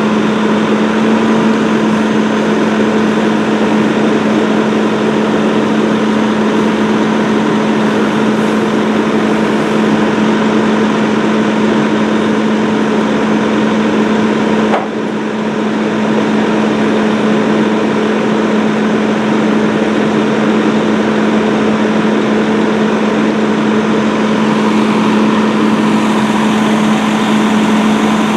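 Fire engine's engine running steadily, with a constant droning tone and a brief drop in level about halfway through.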